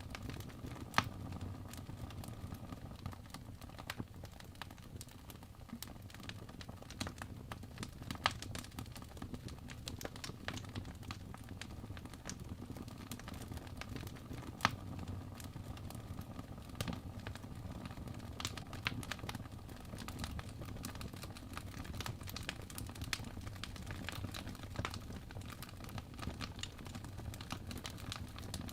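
Wood fire burning in a fireplace: irregular crackles and snaps over a low steady rumble of flame, with a few louder pops about a second in, about eight seconds in and near the middle.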